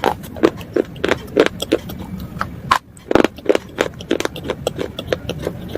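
Close-up chewing of brittle slate pieces: a fast run of crunches and cracks, about two to three a second, with a brief pause a little before halfway.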